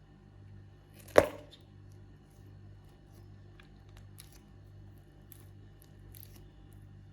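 Scissors cutting into a stress toy: one loud, sharp snip about a second in, then a few faint light clicks.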